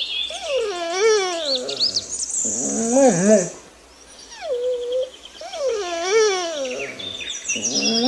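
An animal's wavering calls, rising and falling in pitch, come in several bouts of about a second each, with birds chirping high above them. There is a short lull about four seconds in.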